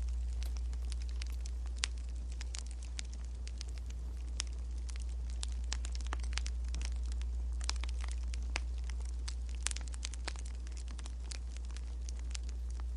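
Wood fire crackling: irregular sharp pops and snaps, several a second at times, over a steady low hum.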